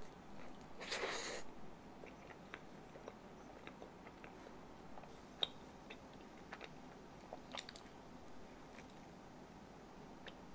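Close-miked chewing of a soft bread with a cold cream filling, faint wet mouth clicks and smacks scattered throughout. A short, louder rush of sound comes about a second in.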